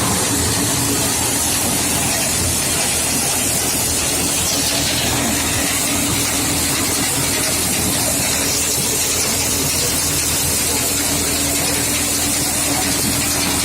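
Tractor diesel engine running steadily under a loud, even hiss.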